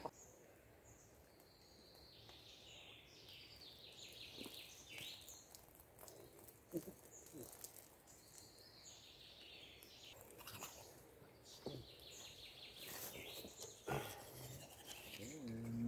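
Faint woodland birdsong: a songbird repeats a short trilling phrase three times, with a few soft knocks in the second half.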